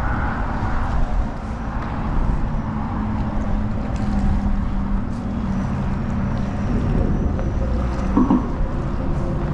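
Steady low wind rumble on the microphone over open water.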